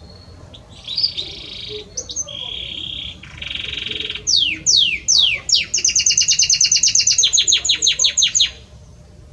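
Male Belgian canary singing: rolling buzzy trills, then a few quick downward-sliding whistles, then a fast, even trill of about eleven notes a second that stops abruptly near the end.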